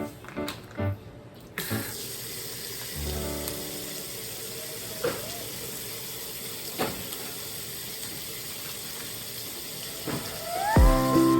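Water running steadily from a tap into a sink, with a couple of faint knocks partway through. Background music plays briefly at the start and comes back in near the end.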